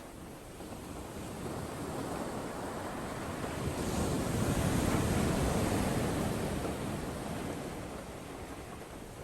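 Surf and wind in a tropical storm: a broad rush that swells to a peak about halfway through and then fades, like a wave surging in.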